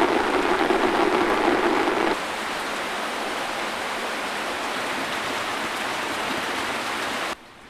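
Heavy rain pouring down, a loud steady hiss. It drops abruptly in level about two seconds in and falls away sharply near the end.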